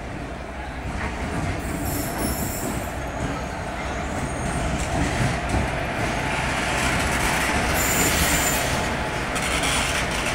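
Passenger train hauled by an Indian Railways electric locomotive rolling slowly in along the platform: a steady rumble of wheels on rail that grows louder, with high-pitched wheel squeals a few times.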